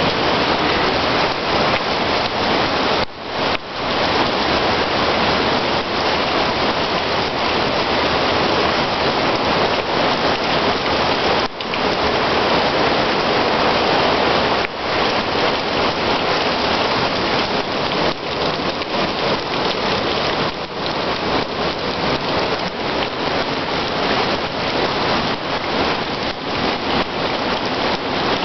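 Heavy rain falling steadily, a loud, dense hiss of a rainstorm pouring onto surfaces, with a few brief dips in loudness.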